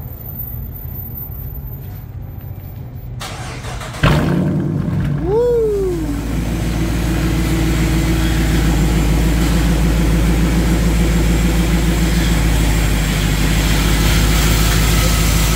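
Dodge Challenger 392's 6.4-litre HEMI V8, freshly straight-piped with the mid mufflers deleted, cold-starting about four seconds in. It catches with a sharp start and a quick rev flare that rises and falls, then settles into a loud, steady idle.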